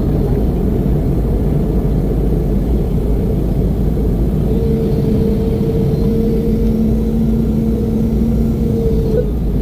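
Steady cabin noise of a Boeing 717-200 airliner: a loud, even rumble from its rear-mounted Rolls-Royce BR715 turbofans and the airflow, with a faint steady hum running through it.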